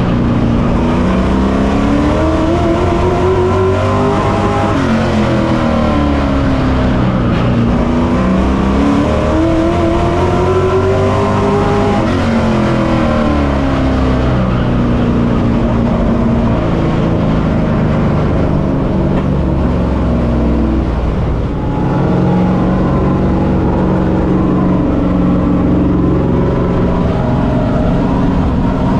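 Pro Truck race truck's engine heard from an on-board camera, revving up and dropping back in long rising-and-falling sweeps as the driver accelerates and lifts around the track. It climbs in pitch twice in the first half, holds steadier for a while, dips briefly, then climbs again near the end.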